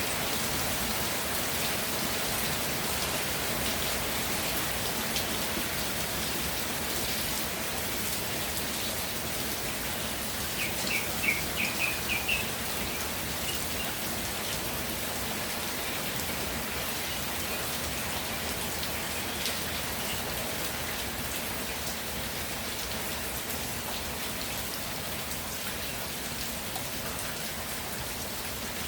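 Steady rainfall pattering down with an even hiss. Near the middle a short run of about seven quick high chirps cuts through.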